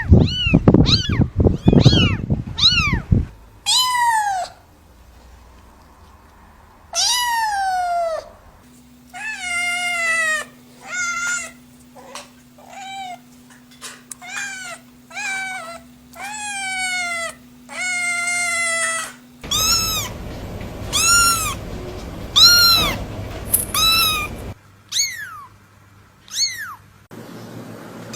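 Cats meowing over and over: a quick run of short high mews for the first few seconds over a low rumble, then longer drawn-out meows that fall in pitch, in separate stretches with a changing background hum.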